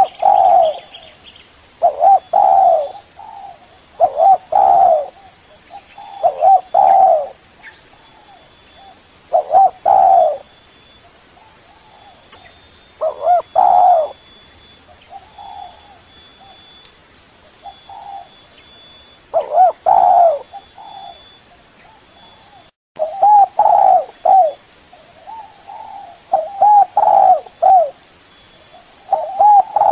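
Spotted dove cooing over and over, a group of a few quick low coos every two to three seconds. There is a momentary dropout in the sound about two-thirds of the way through.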